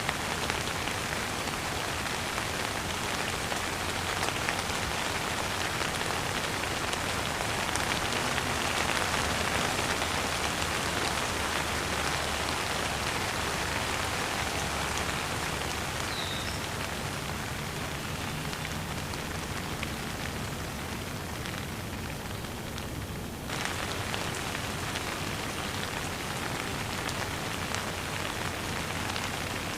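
Steady rain falling, a dense, even patter. About three-quarters of the way through, the higher part of the sound thins for a few seconds and then comes back abruptly.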